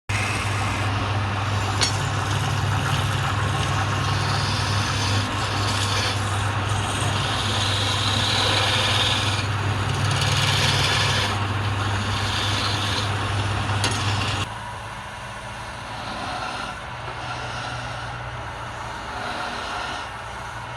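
Wood lathe running with a turning tool cutting the spinning wood: a steady low motor hum under a rough scraping hiss. About fourteen seconds in the cutting eases and the sound drops to a quieter hum and scrape.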